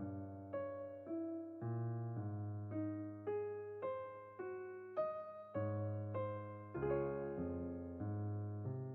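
Background music: a slow electric piano melody, one note about every half second over held bass notes.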